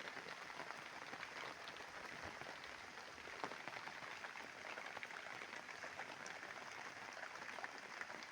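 Heavy rain pouring steadily, a dense patter of countless drops.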